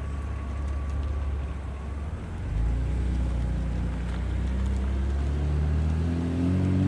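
A vehicle engine running and accelerating, its low hum stepping up in pitch about two and a half seconds in and rising again near the end.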